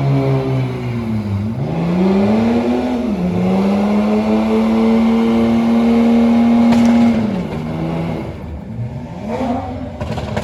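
Car engine revved hard, held at steady high revs for about four seconds, then dropped back toward idle; a shorter blip of revs follows near the end.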